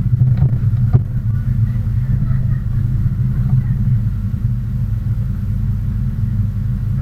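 An engine idling with a steady low rumble, and a couple of faint clicks about a second in.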